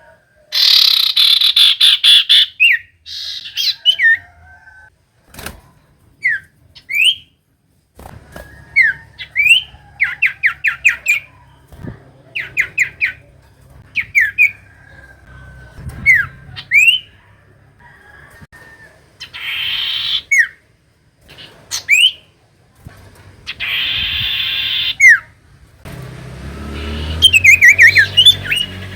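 Common iora (cipoh) calling: harsh, rasping chatter bursts alternating with short, sharply sweeping whistled notes, often in quick runs of three or four, with a fast series of whistles near the end.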